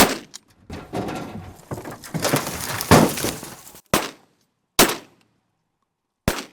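Shotgun volley from several hunters: a first shot, then about three seconds of overlapping shots, then single shots spaced out, the last near the end.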